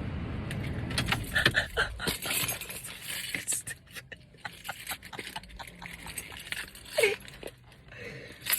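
A passing pickup truck's engine rumble fading away over the first two seconds, then scattered clicks and rattles close by, with a short falling squeal about seven seconds in.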